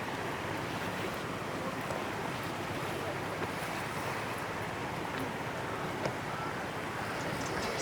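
Steady rushing of a flowing river, with a faint click about six seconds in.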